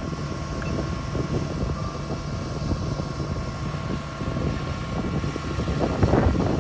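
Shantui bulldozer's diesel engine running under load, a steady low rumble with scattered metallic clanks that grow louder about six seconds in.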